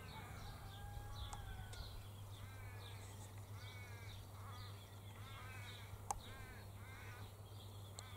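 Australian raven giving a series of faint, harsh cawing calls in two bouts, one about a third of the way in and one after the middle. A single sharp click sounds about six seconds in.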